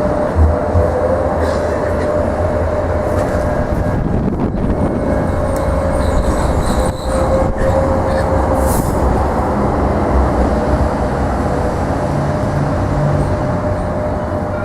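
Sheffield Supertram tram running through a city-centre stop: a steady low rumble with a thin whine over it, and a few light clicks partway through.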